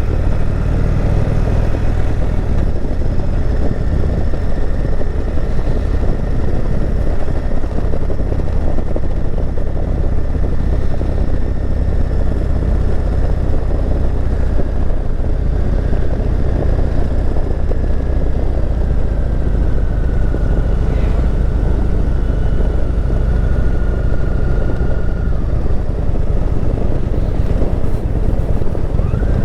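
Motorcycle engine running steadily under way, with a constant rush of wind and road noise.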